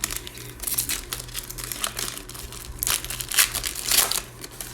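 Plastic trading card pack wrapper crinkling as it is handled and opened, in a string of crackly rustles, loudest about three to four seconds in.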